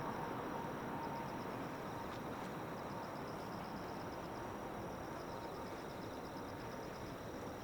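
Distant jet airliner engine noise, a steady rush with a faint whine, slowly fading away, under insects chirping in a rapid, high, pulsing trill.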